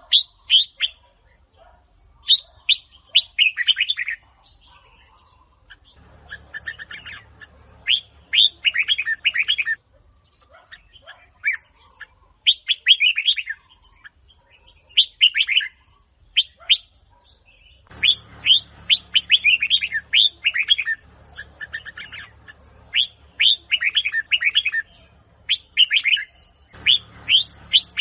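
Red-whiskered bulbul of the Huế chào mào type singing: bursts of quick, bright chirping phrases repeated with short pauses between them. A low background hum comes and goes under the song.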